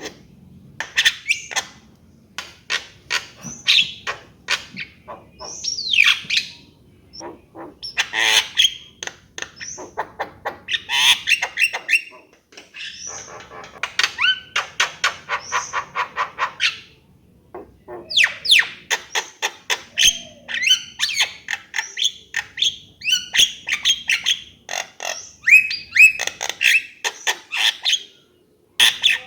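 Javan myna singing: fast runs of clicks and harsh chattering notes mixed with short whistles that glide in pitch, in bursts broken by brief pauses.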